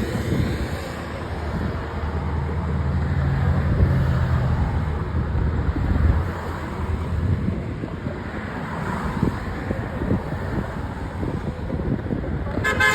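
A passing train's diesel locomotive engine rumbles steadily, with a low hum strongest in the first half, amid wind noise on the microphone. A short pitched sound cuts in right at the end.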